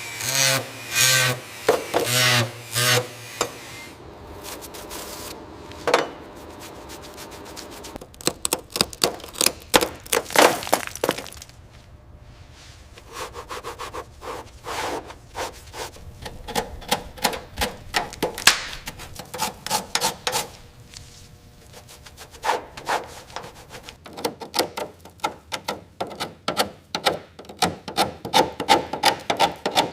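Repeated scraping and knocking strokes in irregular runs, with a short pitched, wavering sound over the first three seconds.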